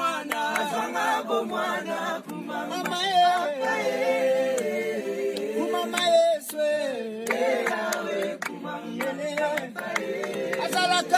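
A group of voices singing together without instruments, the melody gliding and held on long notes, with scattered sharp percussive hits.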